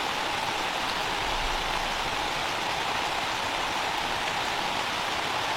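Steady rain falling, an even unbroken hiss with no separate drops or gusts standing out.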